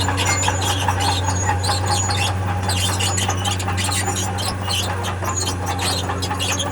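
Steel crawler tracks of heavy earthmoving equipment squealing and scraping as the machine moves, over the steady low hum of its diesel engine.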